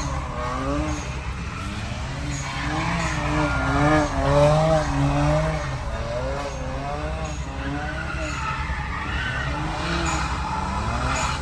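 BMW M3's S55 twin-turbo inline-six running hard while the car spins donuts on wet pavement, with tyre squeal and engine note wavering up and down in pitch about twice a second over a steady low rumble, loudest about four seconds in.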